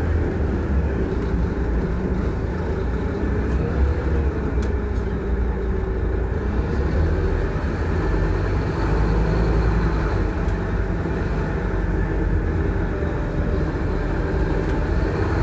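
Scania K230UB single-deck bus heard from inside while under way: a steady low diesel engine and road rumble, with a faint whining tone that shifts in pitch now and then and occasional light rattles.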